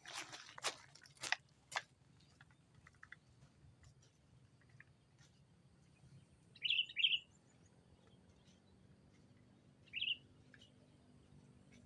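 Sooty-headed bulbul (kutilang) decoy bird calling to draw rivals: a quick two-note call about seven seconds in and a single note about ten seconds in. A few sharp knocks come in the first two seconds.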